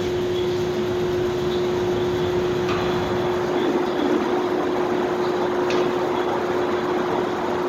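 Steady ambient noise of a large supermarket parking area, heard as a constant hum with one steady tone under a broad rumble. The rumble swells a little around the middle, and there are a few faint clicks.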